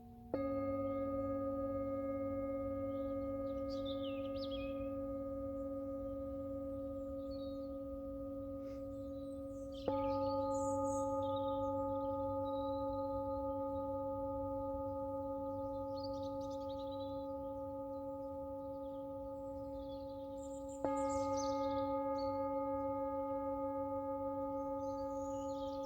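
Tibetan singing bowls struck three times, about ten seconds apart, each strike ringing on in a deep steady tone with higher overtones and fading slowly.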